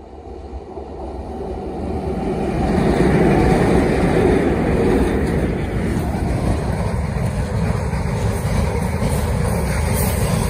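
Goods train passing close by on the rails: an electric locomotive approaches and goes by, the sound growing louder over the first few seconds, then a steady noise of covered box wagons rolling past on their wheels.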